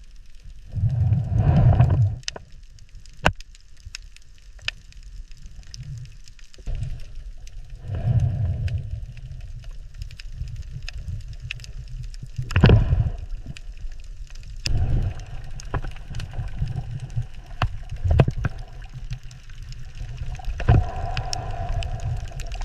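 Underwater water sound: low surging rumbles with bubbling gurgles every few seconds, the strongest about halfway through, and scattered sharp clicks throughout.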